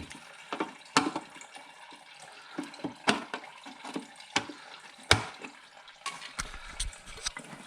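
Coolant trickling steadily from a car's radiator drain tap, with several sharp clicks and knocks from plastic trim clips being worked out of a wheel-arch cover.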